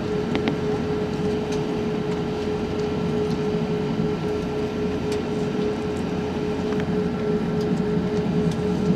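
Cabin noise aboard an Airbus A380 on its lower deck: the steady rumble of the Rolls-Royce Trent 900 engines with a constant hum, light rattles and clicks from the cabin, growing a little louder near the end as the aircraft readies for takeoff.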